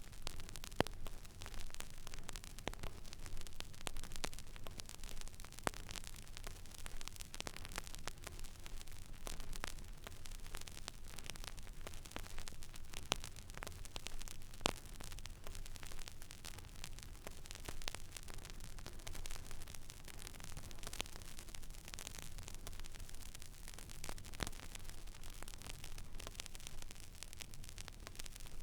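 Stylus running in the empty groove of a vinyl record: steady surface hiss and low hum, scattered with irregular crackles and pops.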